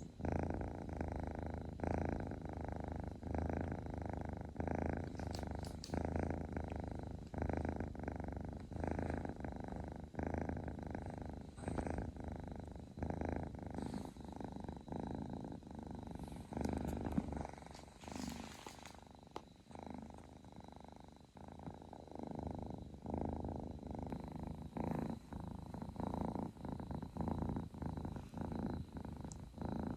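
A kitten purring steadily up close, the purr pulsing with its breathing a little more than once a second. About two-thirds of the way through, a short noisier sound briefly breaks the rhythm.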